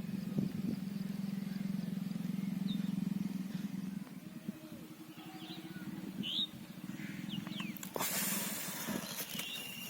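A steady low hum runs throughout, with a few short high bird chirps over it. A loud burst of hiss comes about eight seconds in.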